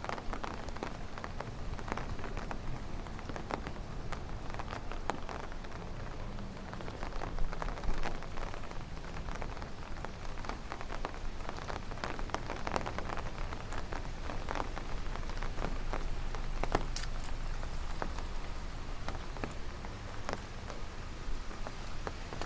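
Rain falling steadily, with many individual drops ticking close by.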